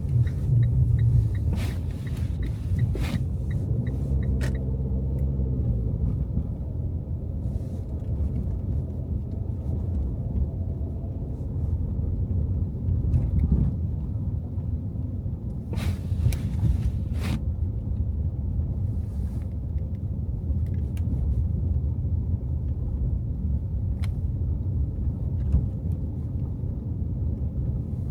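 A car driving on snowy city streets: a steady low rumble of engine and tyres. A light, even ticking runs for the first four seconds or so, and a few sharp knocks come around three seconds in and again about sixteen to seventeen seconds in.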